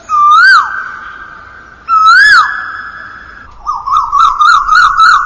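Cuckoo calling: two separate whistled notes that rise then fall, then a quick run of about six shorter rising notes near the end.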